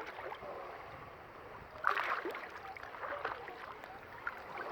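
Small waves gently lapping at the shore, with a brief louder wash about two seconds in.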